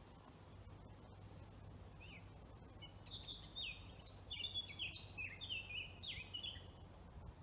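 A wild songbird singing one quick, varied phrase of short, falling whistled notes, starting about three seconds in, over a faint steady background hum.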